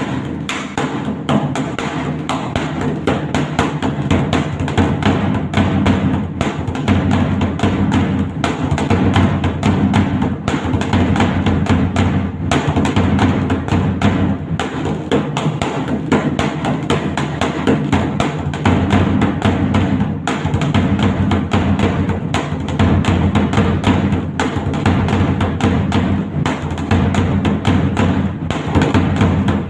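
Dhak, a large two-headed barrel drum, beaten with sticks in a fast, continuous rhythm of dense strokes.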